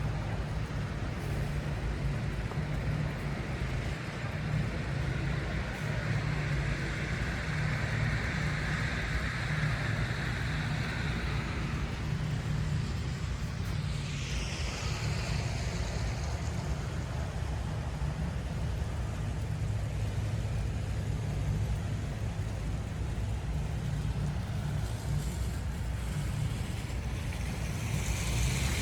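City street traffic: a steady low rumble of passing cars and other vehicles, with one vehicle's tyre hiss swelling and fading over several seconds, and a falling whine about halfway through as something passes.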